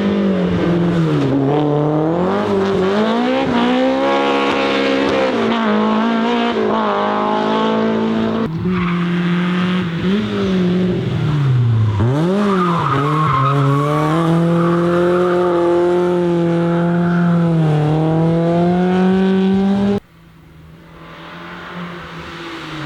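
BMW E30 M3's S14 four-cylinder engine at full throttle, its pitch climbing through each gear and dropping at every shift, with a quick dip and rise about twelve seconds in. The sound cuts off abruptly near the end, and a fainter engine then builds up.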